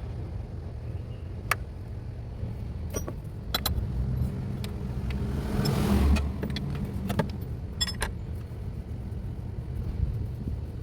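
Hand tools and bolts on a car's transmission support mount: scattered sharp metallic clicks and clinks, with a louder rustle and thud about six seconds in, over a steady low hum.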